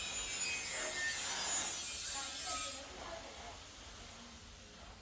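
Harsh scraping and rubbing noise with high squeals, loud for about three seconds and then fading away; faint voices follow.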